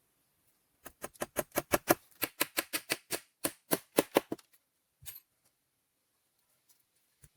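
A rapid series of sharp knocks, about six a second for some three and a half seconds, then a brief cluster of knocks and one last single knock near the end.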